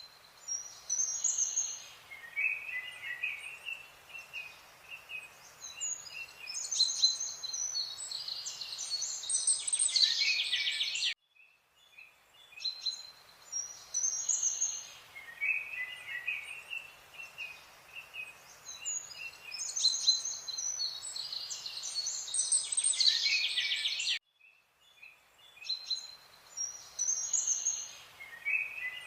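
Songbirds chirping and singing, with quick high trills over a faint hiss. It is a looped recording: it cuts out suddenly about 11 and 24 seconds in, then the same birdsong starts over.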